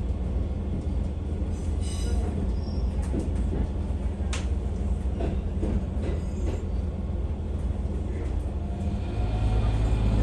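Setsugekka's ET122 diesel railcar running along the line: a steady low rumble with scattered clicks and knocks. The low engine hum grows louder about nine seconds in.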